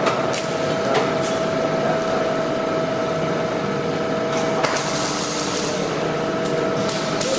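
Steady welding-shop noise: a continuous hiss with a steady hum held through it, and a few sharp clicks, about four in all.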